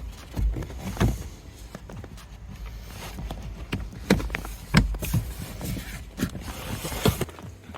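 Irregular sharp knocks and clicks over a steady low rumble, which drops away near the end.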